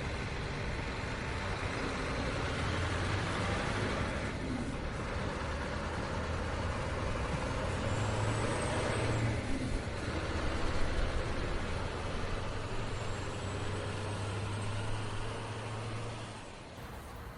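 Scania truck running on the road: a steady low engine drone with tyre and road noise.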